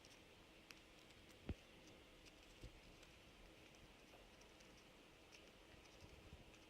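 Near silence: room tone broken by a few faint clicks and a soft thump about one and a half seconds in.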